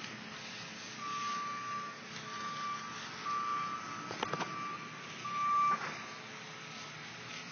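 Electronic beeping: a single high steady tone sounding about five times, some beeps short and some about a second long, at uneven gaps. A couple of sharp knocks land in the middle of the beeping.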